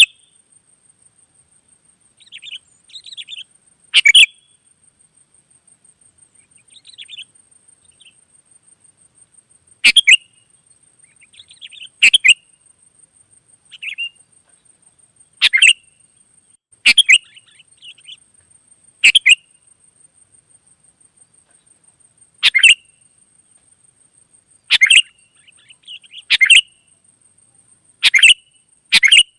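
Sooty-headed bulbul calling: short, loud chirping phrases repeated about every two seconds, with fainter calls in between. A faint steady high whine runs underneath.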